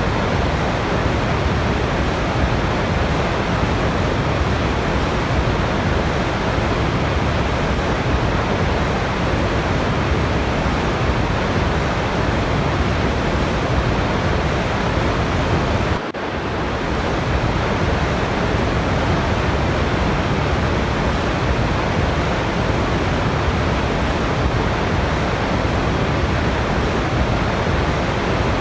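Steady, even rush of a waterfall. About sixteen seconds in, it dips sharply for a moment and swells back within a second or so.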